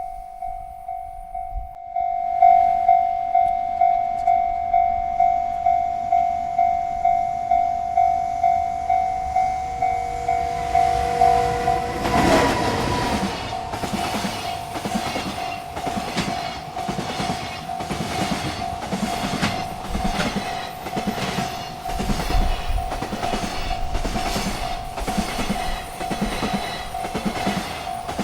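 Railroad crossing bell dinging steadily, about two strokes a second. About twelve seconds in, a freight train reaches the crossing and its wheels clack over the rail joints as the cars roll past, with the bell still ringing underneath.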